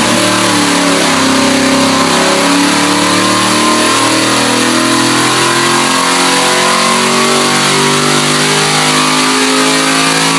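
Jon Kaase 520 cubic inch big-block V8 with a big cam, built on a Ford 460 block, running loud and steady at high rpm under load on an engine dyno during a pull.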